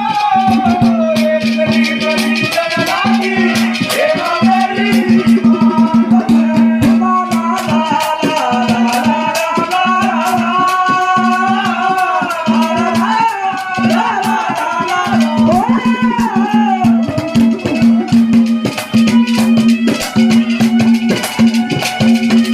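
Live Haryanvi ragni music: a steady held drone, a wavering, bending melody line and fast rattling hand percussion with drum strokes.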